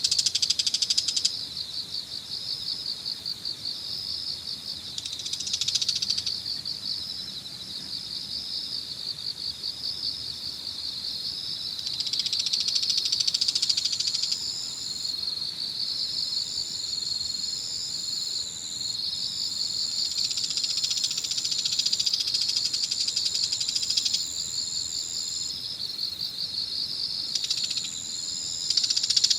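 Early-autumn insects chirping in a dense, fast-pulsing chorus that swells louder several times, with a steady high-pitched trill joining in and out from about halfway through.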